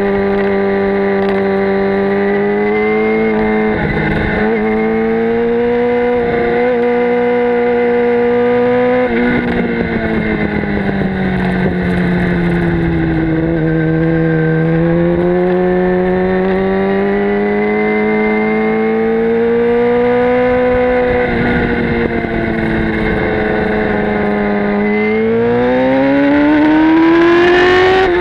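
Motorcycle engine running under way, its pitch rising and falling gently with the throttle through corners, then climbing steadily near the end as the bike accelerates.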